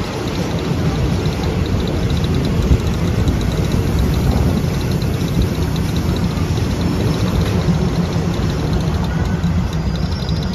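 Passenger train running along the track: a loud, steady rumble of wheels on rails, with a faint high whine.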